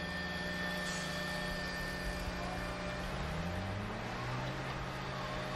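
Steady motor hum whose pitch drops a little about three and a half seconds in, then holds steady at the lower pitch.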